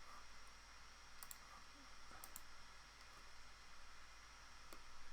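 Computer mouse buttons clicking faintly a few times, the first two as quick double clicks, over faint steady room hiss.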